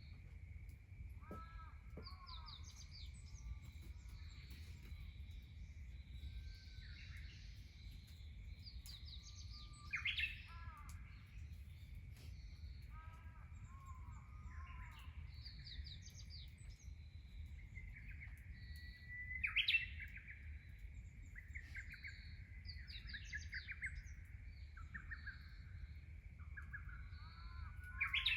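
Several wild birds calling and singing, short chirps and warbling phrases throughout, with louder calls about ten, twenty and twenty-eight seconds in, over a steady thin high-pitched drone and a low outdoor rumble.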